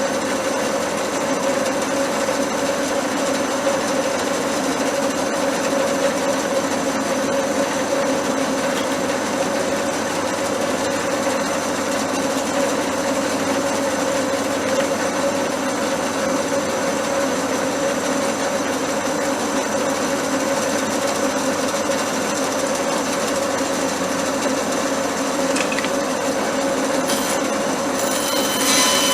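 An electric power tool's motor running steadily without a break, with a constant hum.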